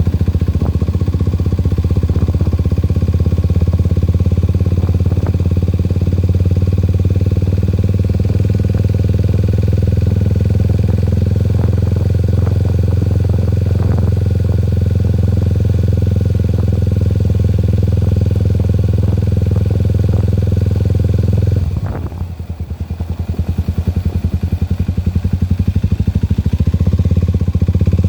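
Motorcycle engine running steadily under way. Its note drops as the throttle eases off about three-quarters of the way through, then builds again.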